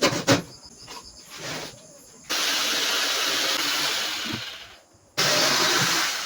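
Sharp knocks, then two long bursts of spraying hiss, each starting suddenly: the first about two seconds long, the second beginning near the end.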